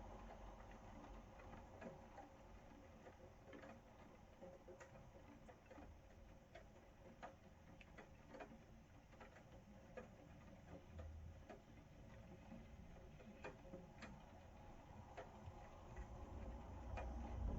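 Faint rain: single drops tapping at uneven intervals, about one or two a second, over a soft steady hiss.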